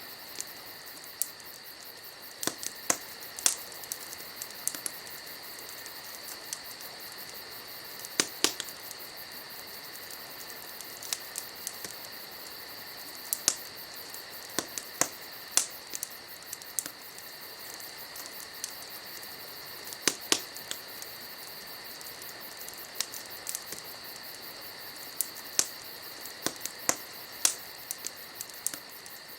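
Wood fire crackling, with irregular sharp pops and snaps, some in quick clusters, over a steady high-pitched chirring of crickets.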